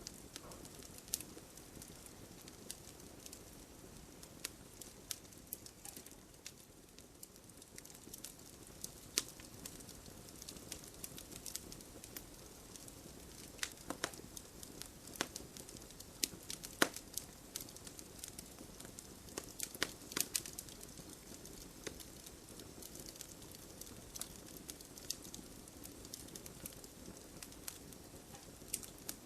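Wood fire burning in a fireplace: a low steady rustle of flames with irregular sharp crackles and pops from the burning logs, a few louder pops in the middle.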